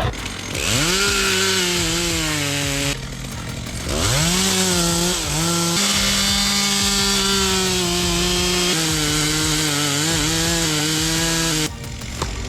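Chainsaw engine revving up to full throttle and running at high speed, as when cutting; it drops back about three seconds in, revs up again a second later, and falls away near the end.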